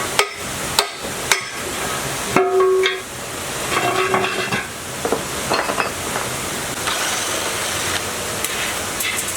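Metal parts knocking and clanking against each other: three sharp knocks in the first second and a half, then two ringing clanks around two and a half and four seconds in, over a steady rushing noise.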